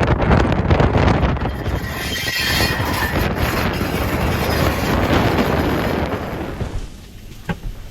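Ford Fusion driving away with a failed wheel bearing, its rumbling wheel noise loud over wind on the microphone. It fades away about seven seconds in.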